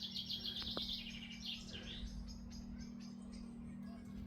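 Small wild birds chirping: a quick run of high chirps in the first second and a half, then fainter scattered chirps, over a faint steady low hum.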